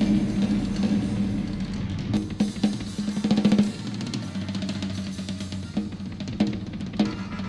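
Instrumental jazz-style ensemble music led by a drum kit: snare, bass drum and cymbals play busily over a sustained low held note.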